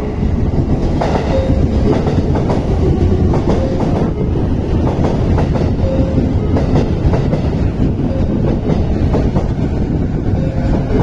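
JR Keiyo Line electric commuter train pulling into the station platform: a loud, steady rumble, with the wheels clicking over the rail joints at intervals.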